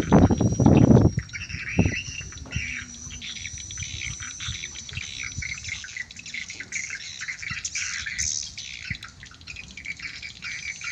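Swiftlets twittering and chirping densely, the calls of a swiftlet lure recording and of swiftlets answering it. A loud low rustle covers the first second or so.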